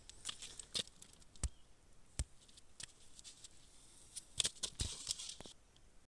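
Scattered sharp clicks and short rustles of handling, with a denser stretch of rustling about four and a half seconds in; the sound cuts off abruptly just before the end.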